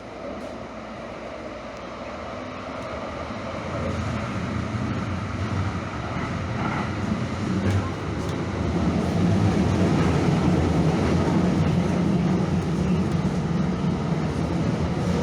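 Train running with a low rumble that grows steadily louder over the first half, then holds steady.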